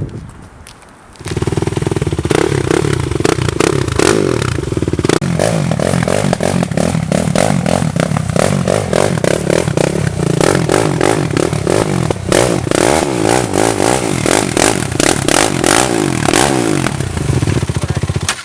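Four-wheeler (ATV) engine running under throttle, revving up and falling back several times as it is ridden along a trail, with rattling and scraping over it. It starts about a second in, after a short lull.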